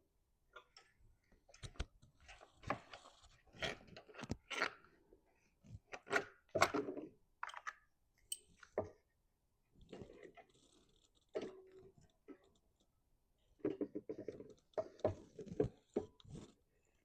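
Irregular clicks, light knocks and short rustles of hands handling small mower parts and tools, in scattered bursts with short pauses between.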